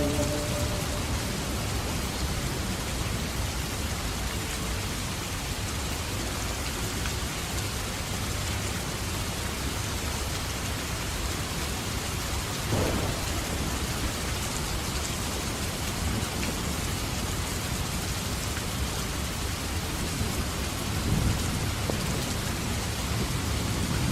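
Steady rain with low rumbles of thunder; a short, louder rumble comes about halfway through and another near the end.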